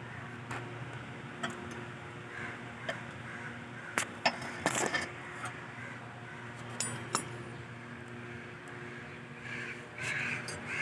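Metal tools and engine parts clinking and knocking a few times, the loudest cluster about four to five seconds in and another about seven seconds in, over a steady low hum. A crow caws near the end.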